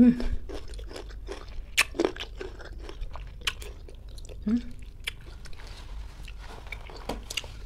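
Close-miked crunchy bites and chewing of firm, unripe green ambarella fruit: a string of sharp, irregular crunches.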